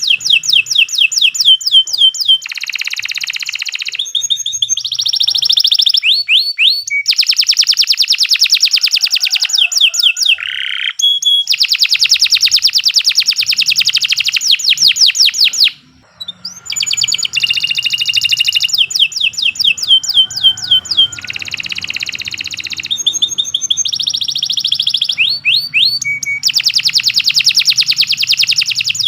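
Domestic canary singing a long, continuous song of fast trills and rapidly repeated notes, switching phrase every second or two, with one short break about halfway through.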